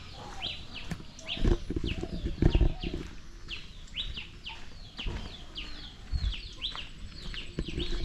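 Small birds chirping over and over in quick, short falling chirps, with a few dull low thumps, the loudest about one and a half and two and a half seconds in.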